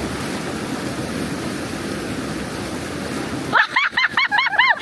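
Waterfall water rushing in a steady, even roar. Near the end it cuts off abruptly, and a rapid string of short high-pitched calls takes over, about four a second.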